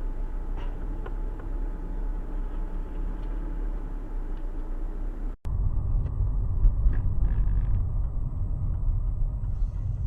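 Car on the move, its engine and road noise picked up by a dashcam as a steady low rumble. The sound drops out for a moment about five seconds in, then comes back louder and deeper.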